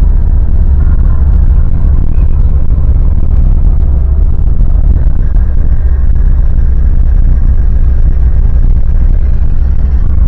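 Lada Niva Legend on the move, a loud steady low rumble of engine and drivetrain.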